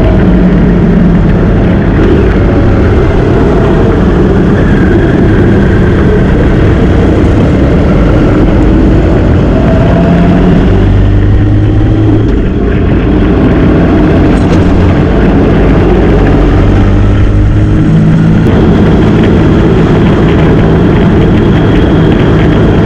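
Motorcycle engine running at road speed under dense, loud wind rush on the microphone. The engine note steps up and down a few times as speed and gears change.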